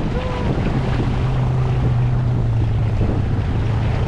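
Boat engine running with a steady low drone, under rushing water and wind buffeting the microphone.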